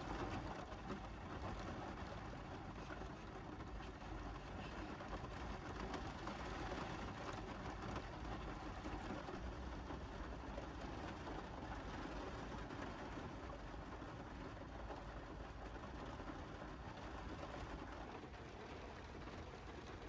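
Steady rain falling on a car's roof, heard from inside the car.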